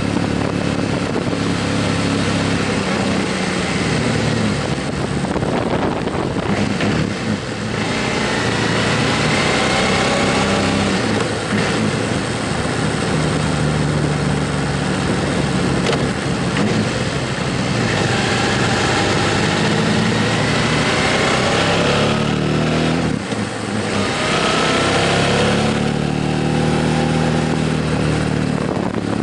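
Motorcycle engine running while riding, with a steady rush of wind. Its pitch rises and falls several times, with brief drops in level about seven and twenty-three seconds in.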